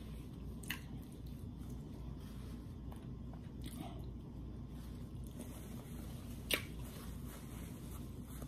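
Faint chewing and mouth sounds of a person eating, over a steady low room hum, with a couple of short clicks, the sharper one about six and a half seconds in.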